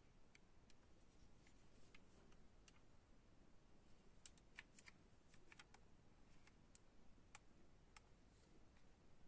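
Near silence, broken by faint, irregular light clicks and ticks, a dozen or so of them, clustered most thickly in the middle.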